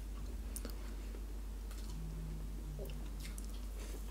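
Faint, sparse wet clicks of a mouth chewing food, over a steady low hum.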